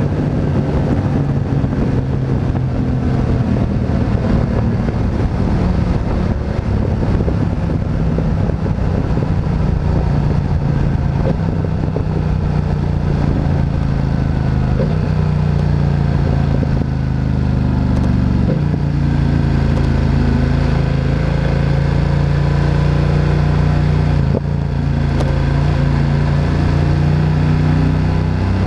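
Motorcycle engine running while being ridden, its note falling at the start, then holding steady with a few shifts in engine speed, the clearest about two thirds of the way in.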